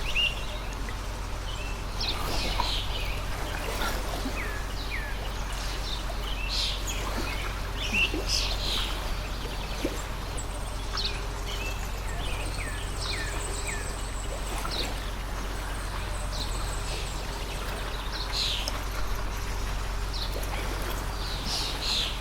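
Songbirds chirping and calling throughout, many short high chirps and quick downward-sliding calls, over the steady rush of a water stream and a constant low hum.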